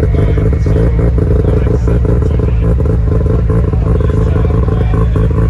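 Car engine running loudly and steadily close by, with a rapid, even, choppy pulse.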